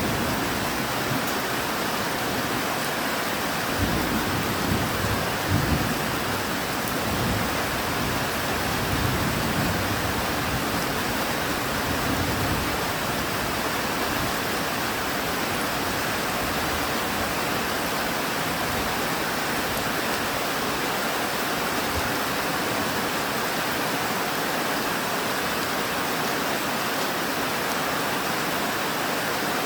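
Steady rain falling, with low rumbles of thunder from about four to thirteen seconds in.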